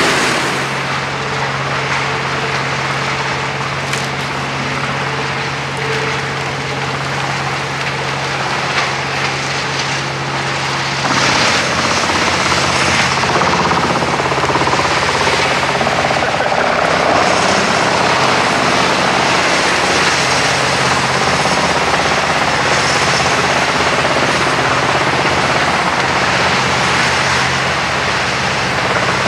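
Ufkes Greentec 952 Mega wood chipper running: a steady engine hum under a dense rushing, crunching noise of branches being chipped. The noise grows louder about eleven seconds in as the machine takes a heavier load.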